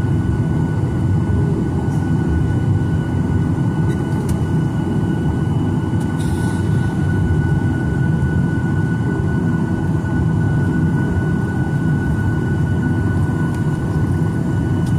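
Steady cabin noise of a Boeing 737-900ER in motion: a low rumble from its CFM56 engines and the airflow, with a thin steady whine over it. A short hiss sounds about six seconds in.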